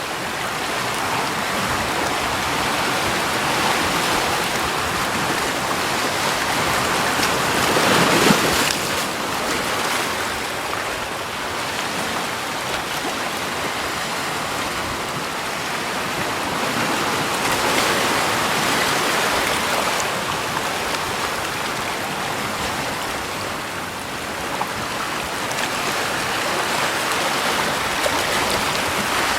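Continuous rushing water noise with no other sounds, swelling louder about eight seconds in, again around eighteen seconds, and once more near the end.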